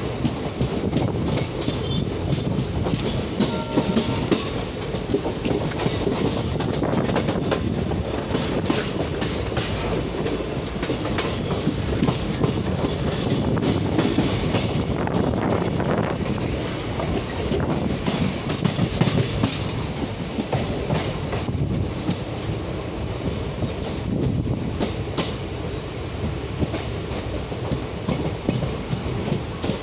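Indian Railways passenger coach running along the track, heard from its doorway: a steady rumble of wheels on rail with an irregular clickety-clack of the wheels passing over rail joints.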